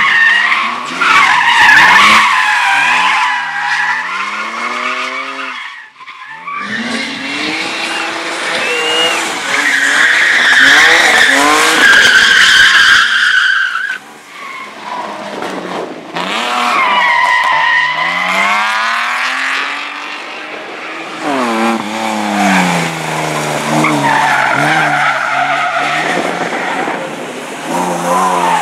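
Competition cars running an auto slalom course: engines revving up and down sharply with lifts and gear changes, and tyres squealing through the turns. The sound comes in three separate runs, cut about six and fourteen seconds in.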